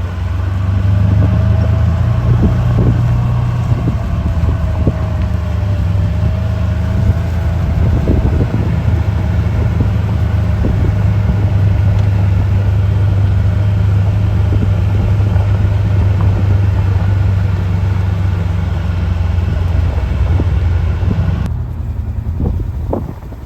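A car driving: steady low engine and road rumble with a faint wavering whine. About twenty seconds in, the sound turns duller and quieter, with a few knocks near the end.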